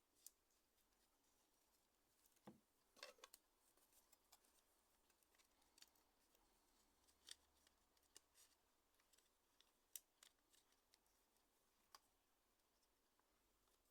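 Near silence with faint, scattered small clicks and taps, about a dozen, including a short cluster about three seconds in, from small parts and tools being handled during a mobile phone repair.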